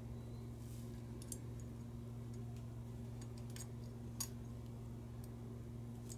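Scattered small sharp clicks and ticks of small lighter parts and tools being handled during a repair, about six over a few seconds, with the loudest a little past four seconds in. Under them runs a steady low electrical hum.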